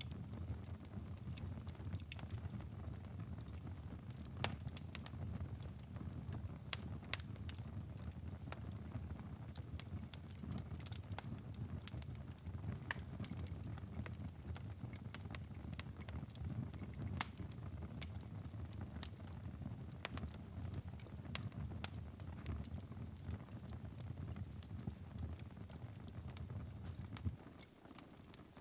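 Wood fire burning in a fireplace: a low steady rumble of flames with frequent irregular sharp crackles and pops.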